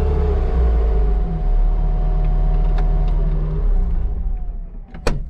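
A vehicle engine running steadily, then winding down and fading as it is shut off about three to four seconds in, followed by a sharp click near the end.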